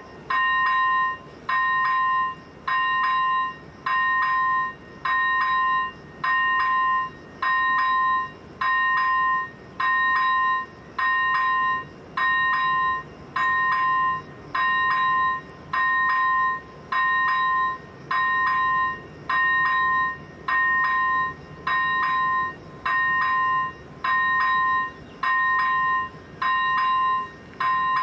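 Railway level crossing warning bell ringing steadily, about one ring every 1.3 seconds: the crossing is activated for an approaching train.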